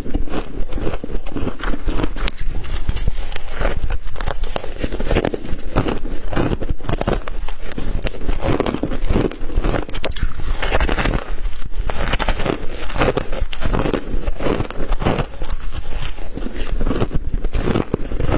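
Close-up crunching and crackling of a person biting and chewing frost, with many irregular crisp crunches throughout.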